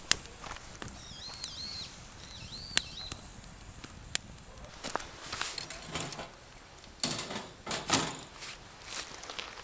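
A few sharp single knocks, then several seconds of rustling, handling noise, typical of camp work such as preparing firewood. A small bird chirps three times in the first few seconds.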